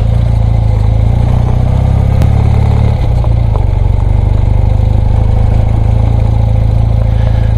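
BMW R100RS's air-cooled flat-twin boxer engine running steadily at low revs as the motorcycle is ridden slowly over a rough dirt track.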